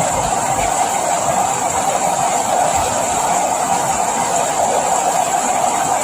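Steady rain falling, an even unbroken noise with no let-up.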